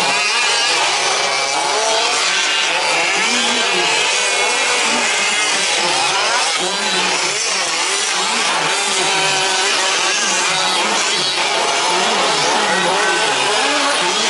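Several 1/5-scale RC trucks' small two-stroke petrol engines racing together, many overlapping engine notes constantly rising and falling as the throttles open and close.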